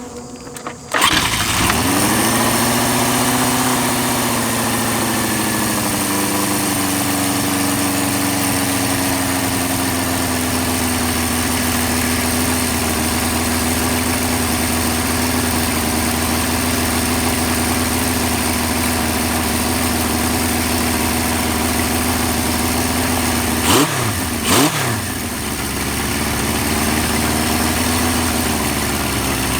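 A 1975 Honda CB550's air-cooled inline four-cylinder engine starts about a second in, then idles steadily, its idle settling lower over the first few seconds. Twice, about 24 seconds in, it falters sharply for a moment and picks back up; the owner blames the bike's running trouble on loose connections in a worn fuse panel.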